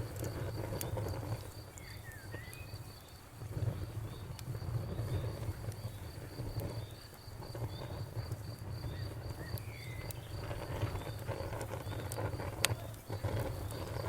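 Wood fire burning in a fireplace: a low steady rumble of flames with scattered crackles and one sharp pop near the end. A steady high pulsing trill runs behind it and stops shortly before the pop.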